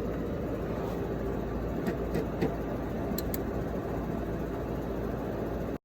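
Steady low background hum and noise with a few faint light clicks, cutting off suddenly near the end.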